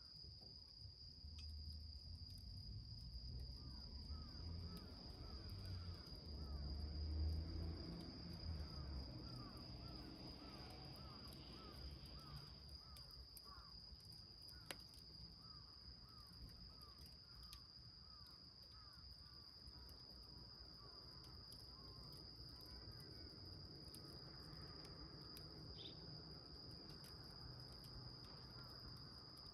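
Crickets trilling in one steady, unbroken high tone, with a lower run of short, quickly repeated chirps through the first two-thirds. A faint low rumble swells about seven seconds in, and a single sharp crack comes near the middle.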